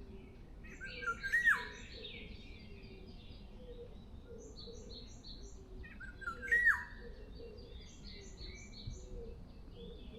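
Several songbirds singing in a forest: one bird gives a louder song phrase twice, about five seconds apart, each ending in a note that rises and then drops sharply, over steady high chirping from other birds.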